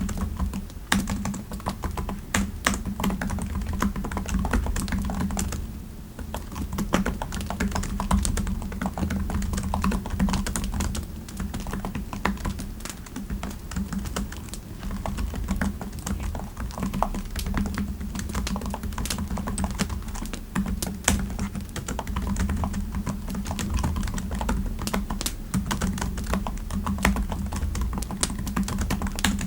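Typing on a computer keyboard: quick, irregular keystrokes with a brief pause about six seconds in, over a steady low rumble of fireplace ambience.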